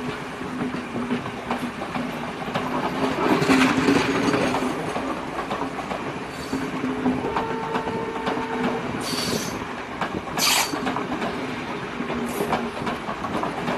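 Passenger train coaches rolling past close by, their wheels clattering on the rails in a steady rumble. A couple of short high-pitched squeals come about nine and ten and a half seconds in.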